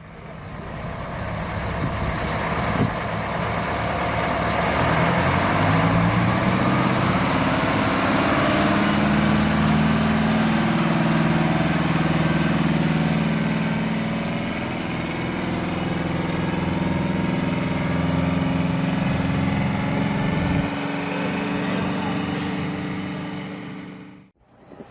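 A truck engine running that climbs in pitch a few seconds in, as it is revved or pulls away, then holds a steady note. Background voices run underneath.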